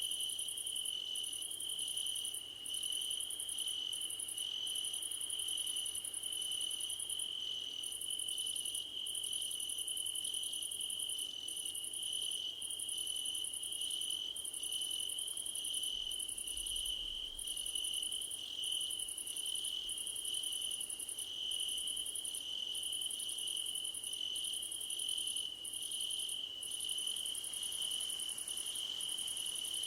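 Crickets singing in grass: one steady, unbroken high trill, with a second, still higher song over it that comes in bursts of about a second with short gaps between them.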